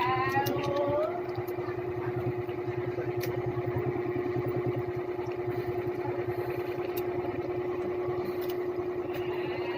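A motor running steadily, with a constant hum and a rapid, even low pulsing throughout, and a few light clicks.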